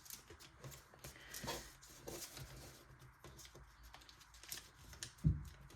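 Sheet of origami paper being folded and creased by hand: faint, scattered crinkling and rustling.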